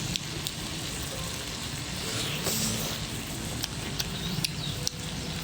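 Food frying over a wood fire: a steady sizzle with scattered sharp crackles.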